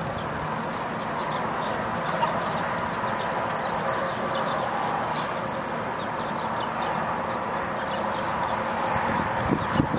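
A steady outdoor hiss with small birds chirping faintly and repeatedly through it.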